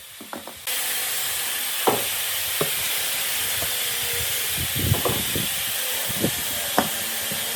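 Steady high hiss of pressurised air or spray from a nozzle, starting abruptly about a second in, with a few light knocks over it.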